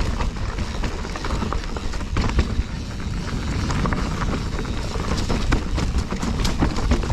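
Specialized Stumpjumper FSR full-suspension mountain bike ridden over rocky singletrack: a steady rumble of tyres on rock and wind on the microphone, broken by many irregular knocks and rattles from the bike's frame, chain and suspension.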